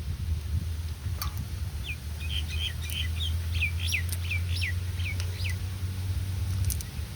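A bird calling: a quick series of about a dozen short, falling chirps over a few seconds, over a steady low rumble.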